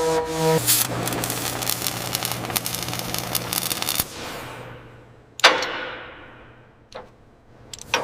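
Workshop tool noise: a steady humming tone stops about half a second in, then a dense crackling rasp runs until it cuts off abruptly about four seconds in. A single loud knock with a fading ring follows, and there is a faint click near the end.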